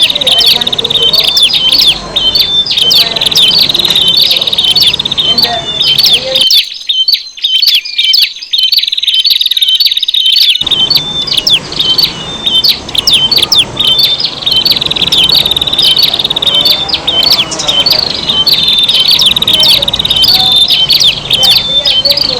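Prinias (prenjak) calling in a busy, layered lure recording: fast high chirps and buzzy trills overlap without a pause.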